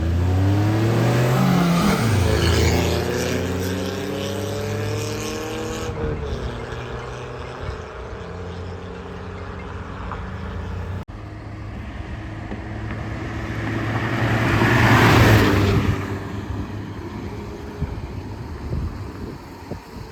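Two cars accelerating hard in a drag race: an engine revving up in rising pitch, falling back at a gear change about two seconds in and climbing again. Later a car swells loudly to a peak and fades as it passes by.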